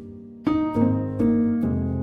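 Background music: soft plucked and keyboard notes in a gentle melody, pausing briefly at the start and coming back in about half a second in.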